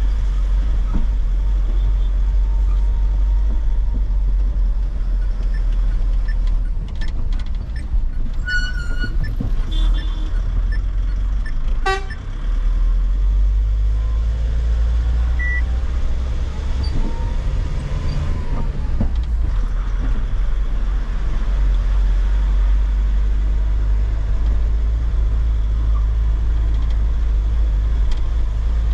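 Truck on the move with a steady low engine and road rumble. A few short vehicle-horn toots come about a third of the way in.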